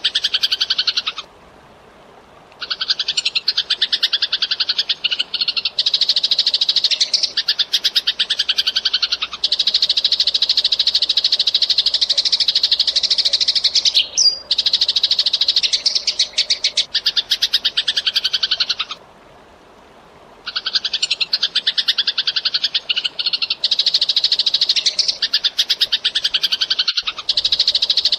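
Eurasian tree sparrow chattering in long runs of rapid, tightly packed chirps. There are two short pauses, one near the start and one about two-thirds of the way through.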